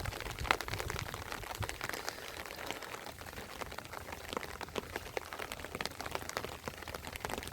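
Rain pattering: a dense, irregular run of small drop ticks over a steady hiss.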